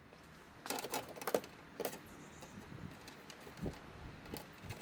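A few light, scattered clicks and knocks, several close together about a second in and a couple more later, against a quiet background.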